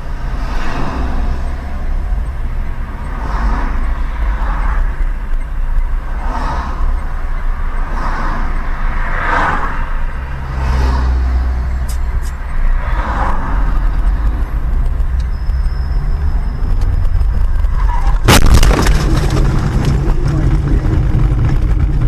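Steady low road and engine rumble heard from inside a moving car. About 18 seconds in comes one sudden loud bang of a collision, which rings on briefly.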